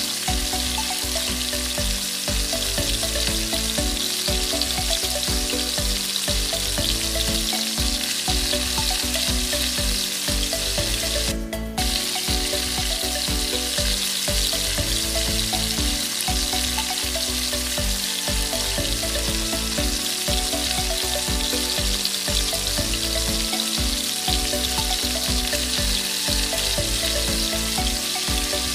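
Yard long beans, corn and yellow bell pepper sizzling steadily in a hot wok as they are stir-fried.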